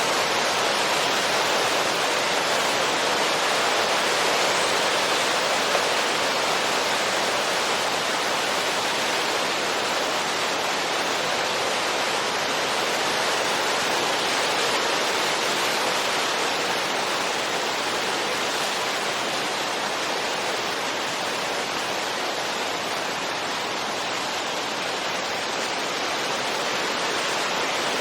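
Steady wind noise: an even, unbroken hiss that rises and falls slightly in level, slowly.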